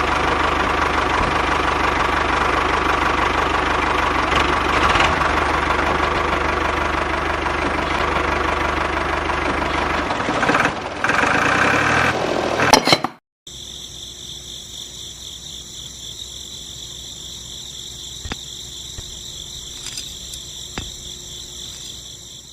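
A small engine running steadily, loud and rough, then cut off abruptly about two-thirds of the way through. A much quieter steady high-pitched hum follows.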